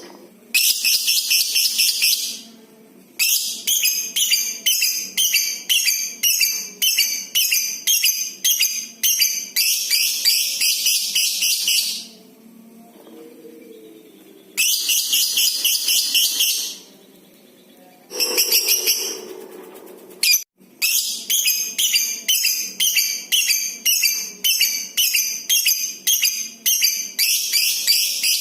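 Lovebird giving its long 'ngekek' chatter: runs of shrill, rapidly pulsed calls lasting several seconds each, with a couple of short pauses between runs.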